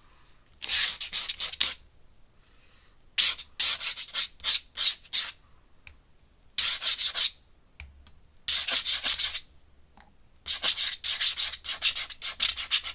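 Pen nib scratching across sketchbook paper in quick back-and-forth strokes, like hatching. It comes in five bursts of rapid strokes, each a second or two long, with short pauses between them.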